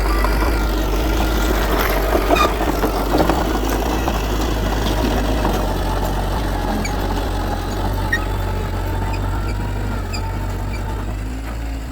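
Diesel engine of heavy earthmoving machinery running steadily, with a few short knocks about two to three seconds in.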